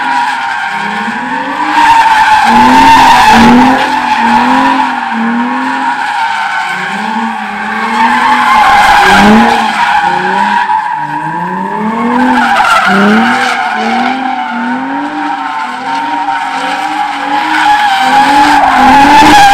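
A car doing donuts or a burnout: tires screech without a break while the engine revs up and drops back over and over, about once a second.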